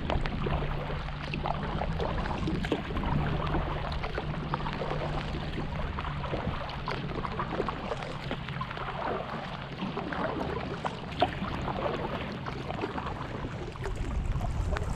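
Light rain falling on the pond and the kayak, a steady wash of water noise with many small scattered drop ticks. A low steady hum runs under it for the first six seconds or so.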